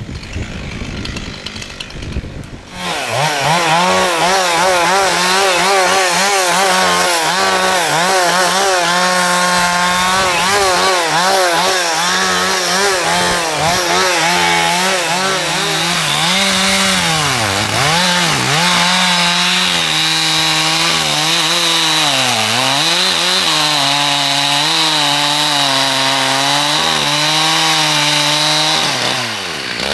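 Two-stroke chainsaw running at full throttle and cutting wood, its pitch steady and high, sagging briefly twice under load before picking up again. It comes in about three seconds in, after a stretch of crackling noise.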